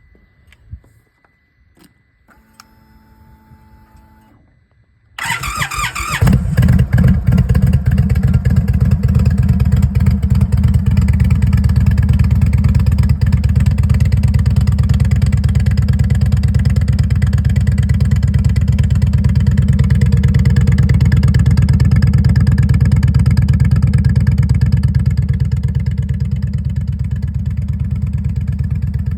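A 2023 Indian Sport Chief's Thunderstroke 116 V-twin, breathing through a new Rinehart exhaust, is started: a brief steady whine, then about five seconds in the starter cranks and the engine catches at once, settling into a loud, steady idle with an even, rapid pulse that eases a little near the end.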